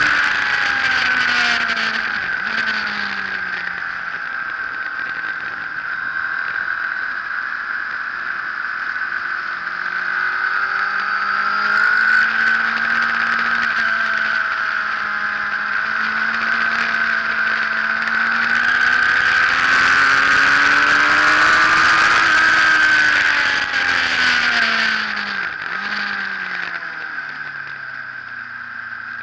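Sport motorcycle engine heard from an onboard camera at speed, with steady wind rush. The revs fall in the first few seconds, climb and hold through the middle, then fall again in the last few seconds.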